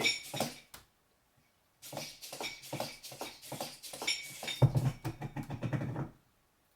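Hobby servo motors of a 3D-printed quadruped robot dog buzzing and whining while it moves under a payload of added weight, with quick clicking and tapping from its joints and feet. The clicks run for about four seconds, and a low buzz from the servos strains louder over the last second and a half before everything stops.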